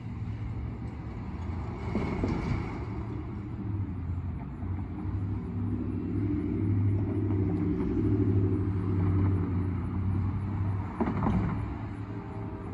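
Diesel locomotive engine of a CSX freight train running, a steady low rumble that grows louder through the middle, with two brief clatters, one about two seconds in and one near the end.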